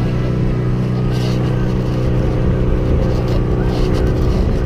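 A sailboat's motor running steadily at constant speed.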